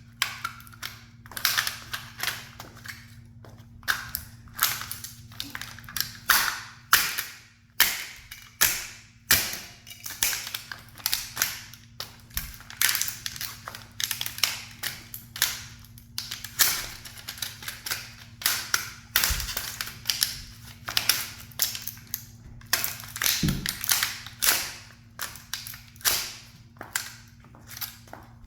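A toy sports car cracking and crunching as a high heel crushes it: a dense, irregular run of sharp snaps and crackles, one to three a second, over a faint steady hum.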